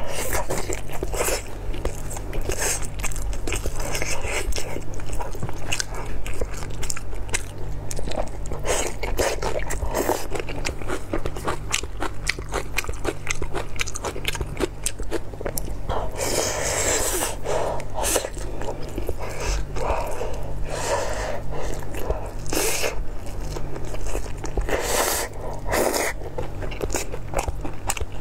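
Close-miked biting and chewing of a blood sausage stuffed with rice, with kimchi: a steady run of small mouth clicks and smacks. There are louder stretches of chewing about halfway through and again near the end.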